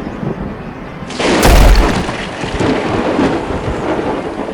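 Thunder sound effect: a sudden loud thunderclap about a second in, a sharp crack with a deep boom, then rolling rumble.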